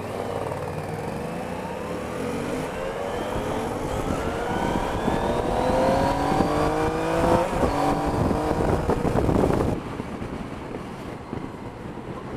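Yamaha Niken GT's three-cylinder engine accelerating hard, its pitch climbing again and again as it shifts up through the gears, under rushing road and wind noise. The throttle comes off about ten seconds in and the sound drops suddenly.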